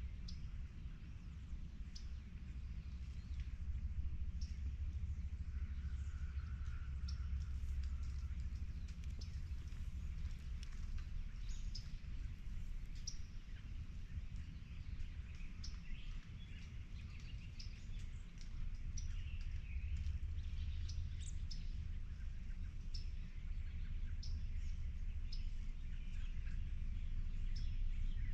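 Wild birds chirping and calling outdoors, short high chirps scattered all through, over a steady low rumble.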